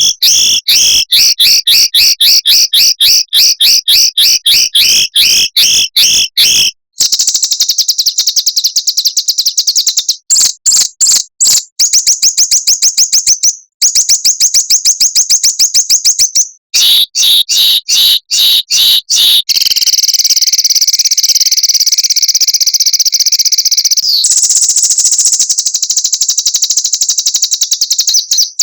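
Small songbird song, looped: fast, high-pitched repeated notes and rattling trills, chopped into segments with abrupt breaks. It becomes an unbroken trill from about two-thirds of the way in.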